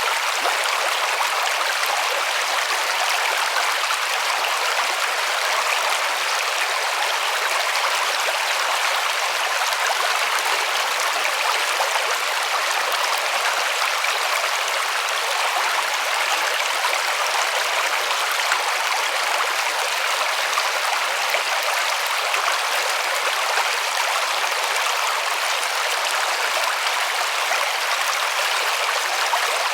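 River water flowing and splashing over stones in a steady rush, with no change throughout.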